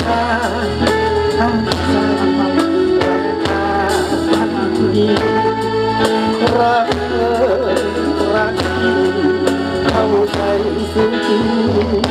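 Live band playing a song with bass, drums and guitar, with a voice singing at times.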